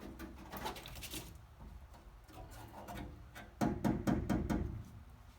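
Irregular knocks and clatter of hand work on a car's sheet-metal body, with a louder run of rapid knocks about three and a half seconds in.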